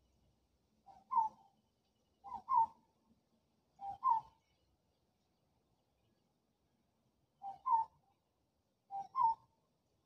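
A bird calling five times, each call a short two-note phrase that steps up in pitch. Three calls come about a second and a half apart, then a pause of about three seconds, then two more.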